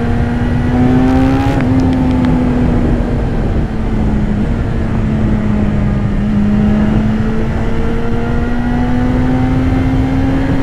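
A 2015 BMW S1000RR's inline-four engine running through its stock exhaust at a steady cruise. The pitch dips briefly about one and a half seconds in, then climbs slowly in the second half. Wind rumbles on the helmet-mounted microphone.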